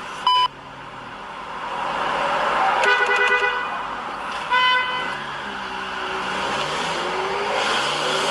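Car horn honking in two short blasts, about three seconds in and again about a second and a half later, over steady road and traffic noise. A brief high beep sounds just after the start.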